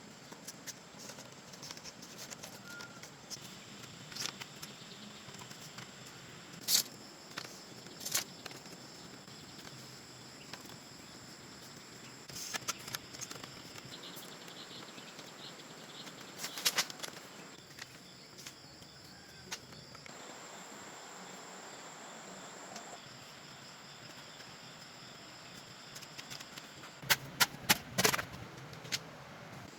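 Steady insect buzz in the background, broken by scattered sharp knocks and clicks, with a quick cluster of them near the end.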